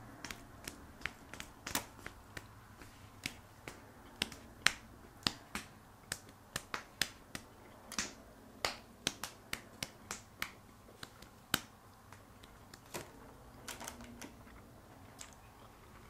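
Close-up eating sounds of people chewing fast-food sandwiches: a run of short, sharp wet mouth clicks and lip smacks at an uneven pace, thinning out near the end.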